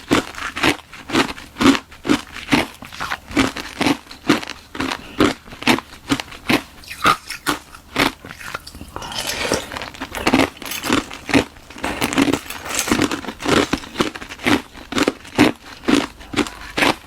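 Ice being bitten and chewed close to the microphone, with a steady run of sharp, crackling crunches about two to three a second. The ice is a hollow shell frozen in a balloon and filled with frozen milk tea.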